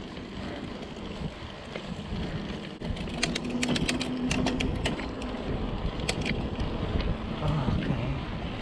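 Mountain bike riding over rough ground: a steady rumble of tyres and wind on the microphone, with a run of sharp, irregular rattling clicks from the bike in the middle.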